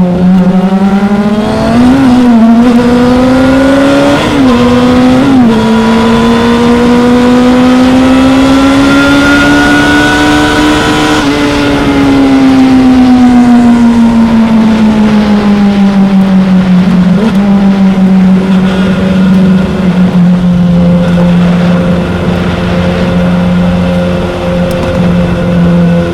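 2016 Yamaha R6's inline-four engine running at speed, its note jumping briefly three times in the first few seconds, climbing steadily until about halfway, then falling away and settling to a steady lower note for the last several seconds.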